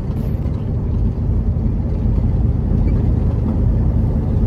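Ford Gran Torino engine and road noise heard from inside the cabin while driving: a steady, low rumble.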